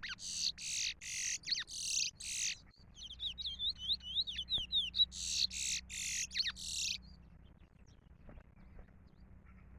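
A songbird singing one long phrase: a row of loud, harsh buzzy notes about two a second, then a quick run of short whistled slurs about three seconds in, then more harsh notes, stopping about seven seconds in.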